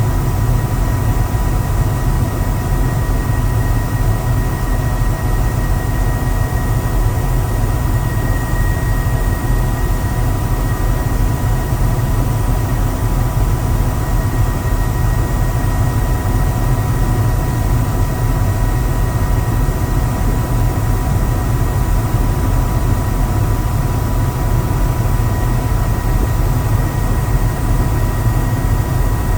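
Helicopter in flight: steady low rotor and engine rumble with a steady high whine on top, unchanging throughout.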